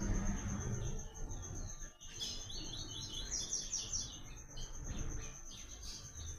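Papa-capim seedeater singing one fast phrase of short, high, clear notes about two seconds in, over a steady thin high tone.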